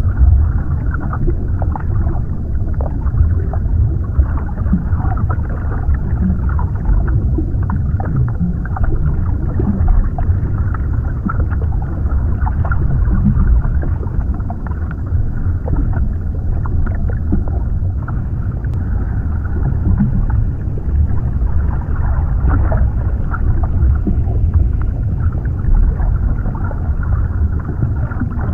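Underwater ambience: a steady, muffled low rumble of water with faint scattered crackles and pops.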